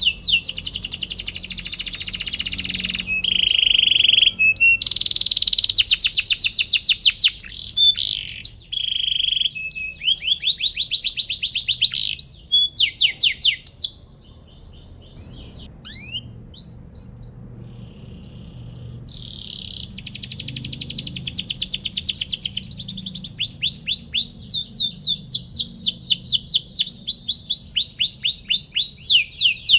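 Domestic canary singing a long song of fast trills, each made of quickly repeated sweeping whistled notes. The song pauses for about five seconds halfway through, with only a few faint scattered notes, then starts up again.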